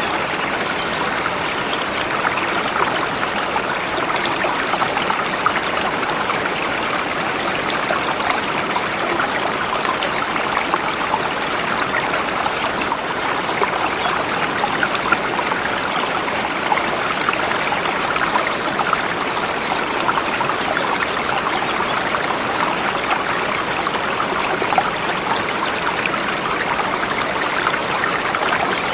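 A forest river flowing swiftly over rocks: a steady rushing and babbling of water.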